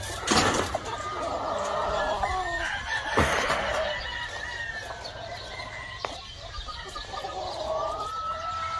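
Gamefowl roosters crowing, with several long drawn-out calls overlapping, and hens clucking. Two brief rushing noises cut in, one just after the start and one about three seconds in.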